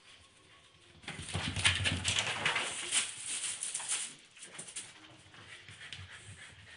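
A dog making a noisy, rapid run of sounds that starts suddenly about a second in and lasts about three seconds, then dies down to faint scattered noise.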